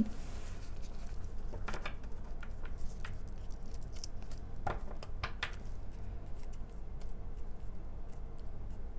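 A few soft clicks and light rustles, the loudest about five seconds in, over a steady low hum of room noise.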